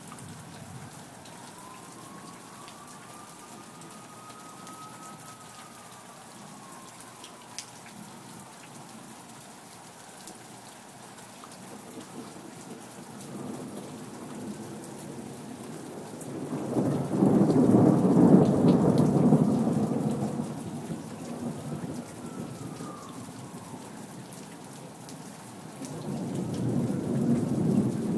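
Steady rain falling, with a long rumble of thunder a little past halfway through that is the loudest thing here, and another roll of thunder building near the end.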